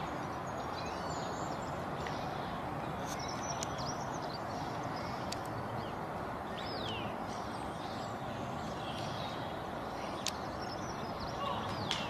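Steady outdoor background noise with small birds chirping now and then in short, high, descending calls, and a sharp click or two.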